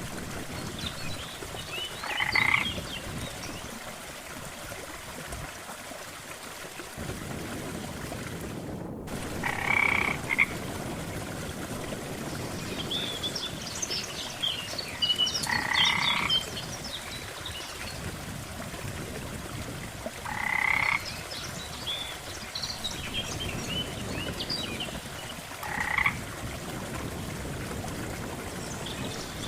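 Frogs croaking: five short pulsed croaks, about five or six seconds apart, over a steady low background wash, with scattered short higher chirps joining about halfway through.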